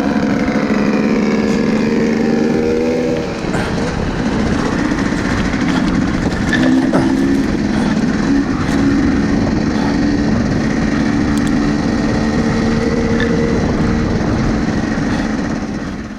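Electric mountain bike being ridden on a trail: its Bafang 1 kW motor whines steadily under load over the rush of wind and tyres. The whine stops suddenly near the end.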